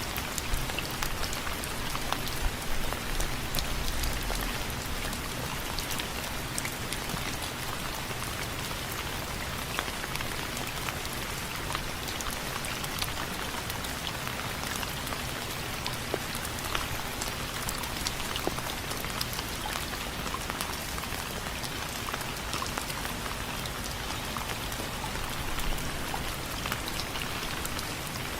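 Steady rain striking window frames: a continuous hiss of rainfall with many distinct drop ticks. There is a short low rumble about three seconds in.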